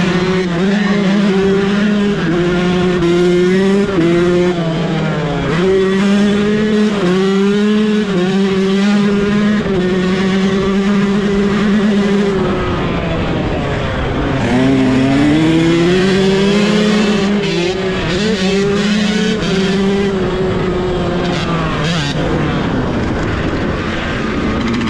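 Dirt bike engine being ridden hard, its pitch climbing and dropping in steps as the throttle is worked and gears change. It falls off sharply about 14 seconds in, then climbs back up.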